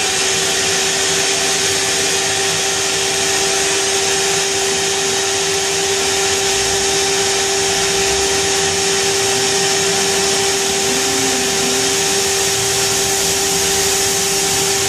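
Pheer 327 2x72 belt grinder's motor and abrasive belt running freely at about half speed on its speed controller, a steady hum with a constant tone after spinning up.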